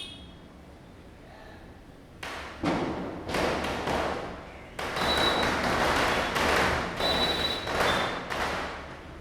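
Diwali firecrackers bursting in a rapid string of bangs, starting about two seconds in and running for several seconds before dying away near the end.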